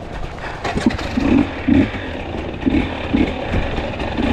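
Two-stroke enduro dirt bike engine revved in a series of short throttle bursts over a steady running note, with some clatter, as the bike works through rough trail.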